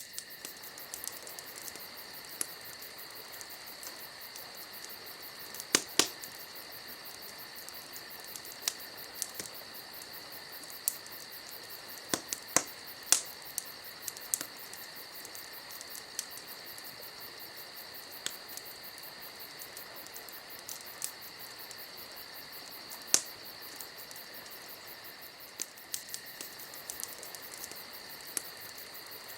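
Wood campfire crackling, with irregular sharp pops and snaps, a few much louder than the rest, over a steady high-pitched chirring of crickets.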